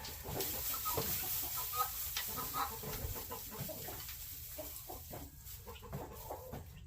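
Chickens clucking: many short clucks scattered throughout, over a background of rustling noise.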